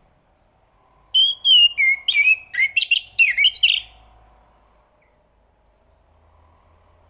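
Chestnut-capped thrush singing one quick phrase of varied, gliding whistled notes, starting about a second in and lasting nearly three seconds.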